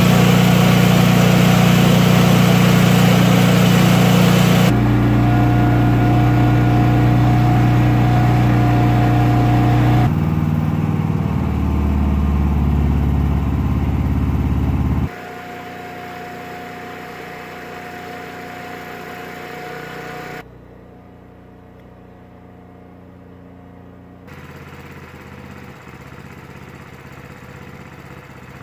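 Briggs and Stratton portable generator engines running steadily at a constant pitch. The sound cuts abruptly to a different, quieter recording roughly every five seconds, stepping from very loud down to a faint hum.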